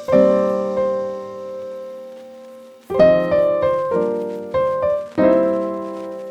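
Background piano music: a chord near the start rings out, then about five chords are struck in quick succession from about three seconds in, each left to ring and fade.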